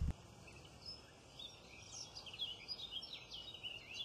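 A songbird singing: quick, high chirping phrases that begin about a second and a half in, over a faint outdoor hiss. A brief low thump comes at the very start.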